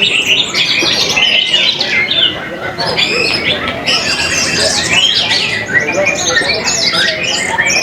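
Several orange-headed thrushes singing over one another, a dense run of short sweeping notes with no pause.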